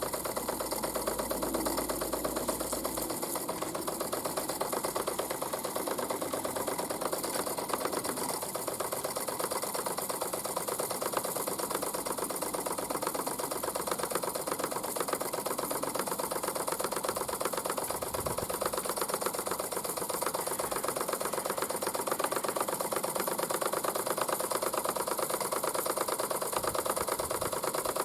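Mamod SP8 James Watt model steam beam engine running steadily, its small mechanism ticking and chuffing in a fast, even rhythm over a steady hiss.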